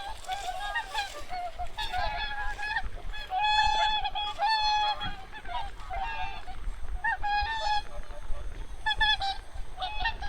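A flock of migratory waterfowl, wild geese and swans, calling constantly, with many short pitched calls overlapping one another.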